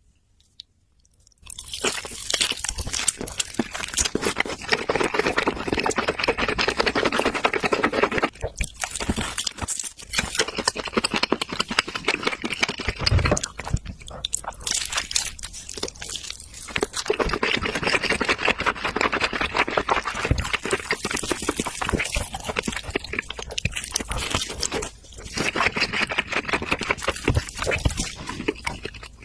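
Close-miked chewing and crunching of barbecued steak and ribs, a dense wet crackle that starts about a second and a half in and runs in long bouts broken by several brief pauses.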